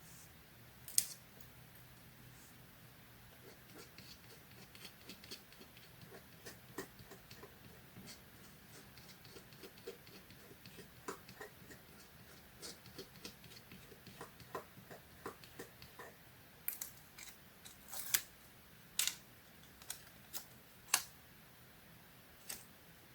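Scissors snipping paper: a long run of small, quick snips, then a handful of louder, sharper cuts near the end.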